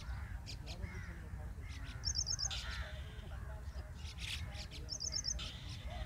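Several birds calling: a quick, high trill of about five notes repeats twice, over many shorter, lower calls. A steady low rumble runs underneath.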